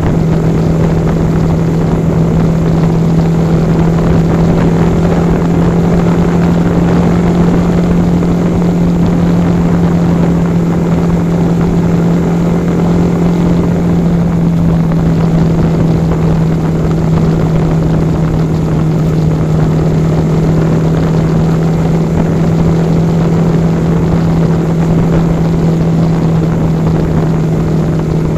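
Yamaha R15 V4's 155 cc single-cylinder engine and exhaust held at a steady cruising speed, an even drone that does not rise or fall, under a constant rush of wind over the microphone.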